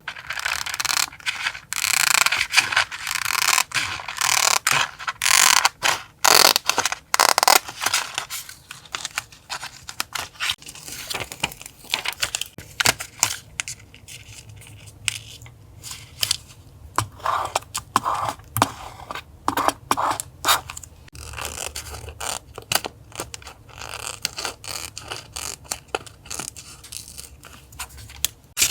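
Paper and stickers being handled for a journal collage: many short strokes of scraping, rubbing and peeling. A low steady hum runs underneath and grows plainer near the end.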